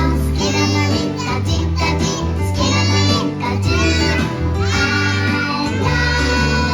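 Young children's voices singing together over instrumental music.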